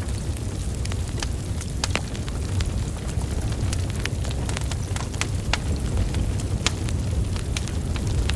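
Wood fire burning: logs crackling with frequent sharp pops and snaps at irregular intervals over a steady low rumble of flames.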